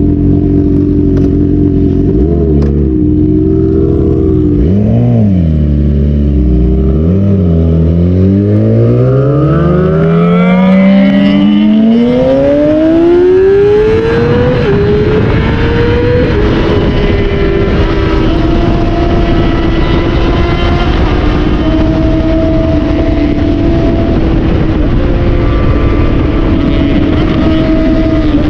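Yamaha R6 inline-four sport-bike engine idling, then blipped a few times, then pulling away with a long rising rev. About halfway through it drops to a steadier cruising note, with a low rushing noise once moving.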